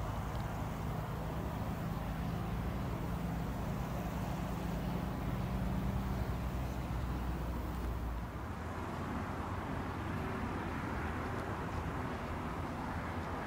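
Electric train running along the line with a steady low rumble and hum, which drops off about eight seconds in and leaves a fainter rumble as it moves away.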